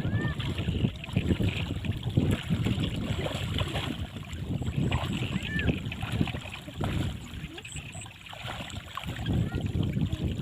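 Shallow floodwater splashing and sloshing in irregular surges.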